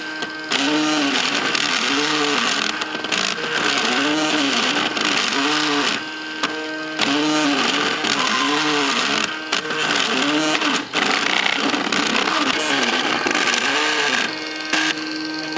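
MakerBot 3D printer's stepper motors whining while printing, the pitch rising and falling in quick arcs over and over as the print head speeds up and slows down between moves. A couple of times the arcs stop and a steady hum holds for about a second.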